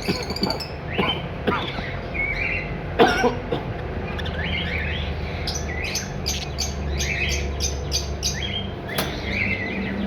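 Caged budgerigars chirping and chattering: many short, quick calls overlapping, over a low steady hum.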